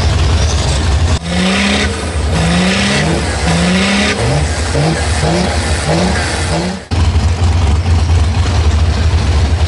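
Big truck engine running with a heavy low rumble, then revved in a series of short rising blips that come quicker and quicker, then back to the rumble; the changes are abrupt cuts.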